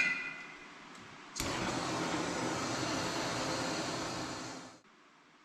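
A light metal clink with a short ring, then a steady rushing hiss that starts abruptly about a second and a half in and cuts off about three seconds later: a gas torch heating a solder-filled battery terminal end to melt its pre-loaded solder.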